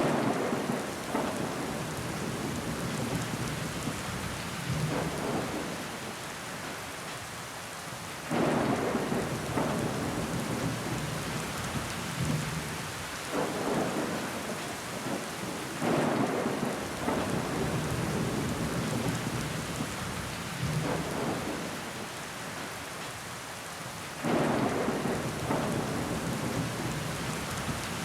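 Steady rain pattering on window glass, swelling into heavier surges about every eight seconds that fade over a few seconds each.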